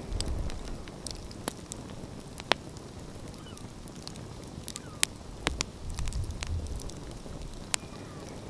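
Outdoor wood fire crackling, with irregular sharp pops over a low rumble.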